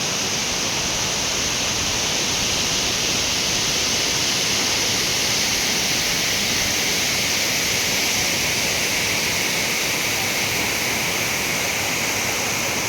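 Waterfall's falling water rushing in a steady, even hiss, strongest in the upper range.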